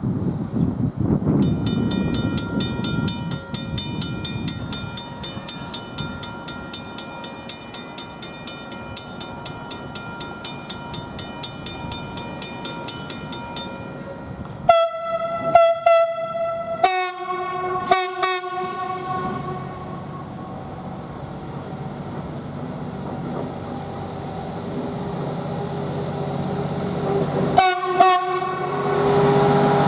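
A bell rings steadily about twice a second for roughly twelve seconds, then a train horn sounds four blasts, two more short blasts near the end, as the rumble of an approaching train grows louder.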